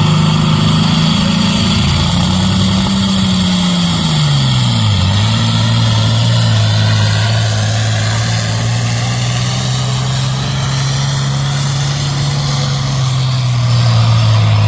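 Big farm tractor's diesel engine working hard on a pull: its note rises briefly, then drops steeply about five seconds in as the load drags the engine down, and holds at a lower, steady pitch.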